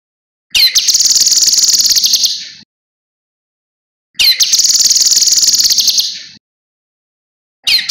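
Cucak kinoi singing in loud, high-pitched phrases of very rapid trilling, each about two seconds long and opening with a quick falling note. Two full phrases are separated by short silences, and a third begins near the end.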